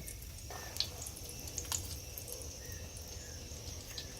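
Bolinho de chuva batter frying in hot oil: a faint steady sizzle with scattered small crackles and pops.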